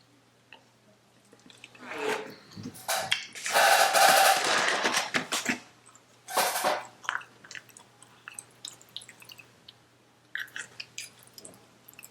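Close-up eating sounds: chewing and mouth noises, with a loud stretch of crunching and smacking a few seconds in and scattered smaller clicks near the end.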